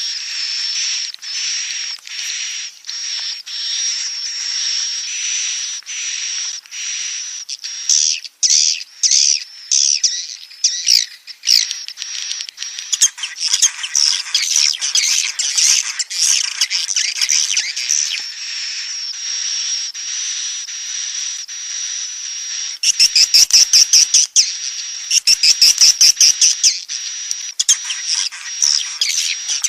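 Swiftlet chicks calling in the nest: continuous high-pitched chittering and cheeping over a steady high whistle. About three-quarters of the way through come two bursts of very rapid buzzing chirps.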